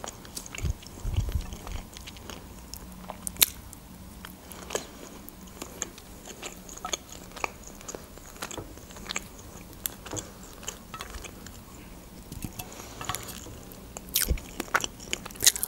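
Close-miked chewing of breaded chicken and tomato: wet mouth sounds with many small sharp clicks and light crunches.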